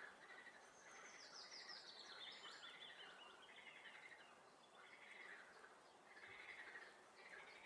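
Faint spring chorus of frogs calling over a swamp, with a songbird singing a quick trill that falls in pitch from about a second in.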